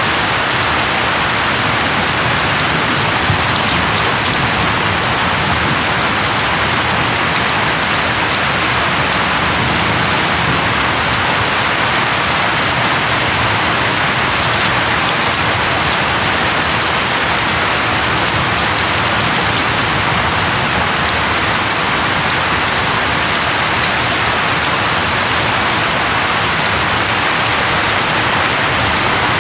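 Steady rain falling and pattering on a surface, a constant even hiss of many drops.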